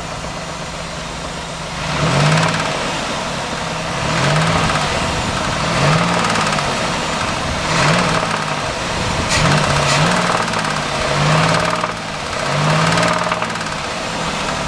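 Pontiac Bonneville's 3.8 V6 blipped from idle: after about two seconds of idling it is revved up and let fall back about seven times, roughly every two seconds. The owner suspects a bent rod or a bad rocker arm in this engine.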